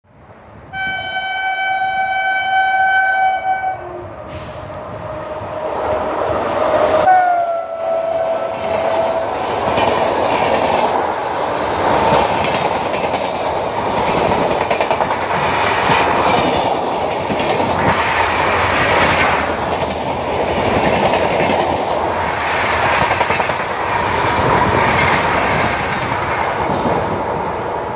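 WAP-7 electric locomotive horn blown long on approach. A second, shorter blast drops in pitch as the locomotive passes about seven seconds in. Then comes the steady rush and clickety-clack of the express's coaches running through the station at speed.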